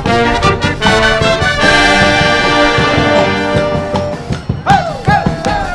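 Wind band with trumpets and trombones playing a forró tune, closing on a long held chord. Near the end the audience breaks into cheering and whistling.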